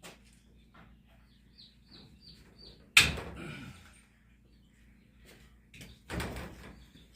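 A sharp bang about three seconds in, ringing briefly, and a second duller knock about six seconds in; a quick run of five faint high chirps comes just before the first bang.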